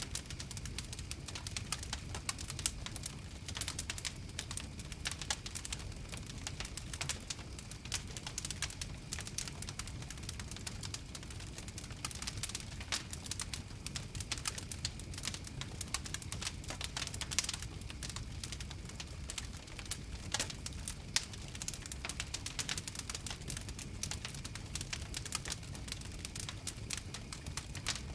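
Wood fire crackling, dense irregular snaps and pops over a low steady rumble.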